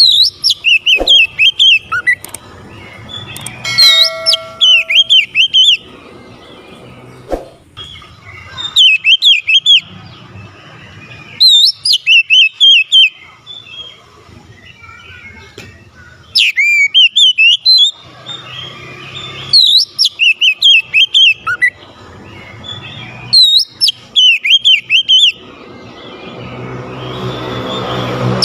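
Oriental magpie-robin (kacer) singing in repeated loud bursts of rapid, swooping whistled notes. The phrases come about every three to four seconds.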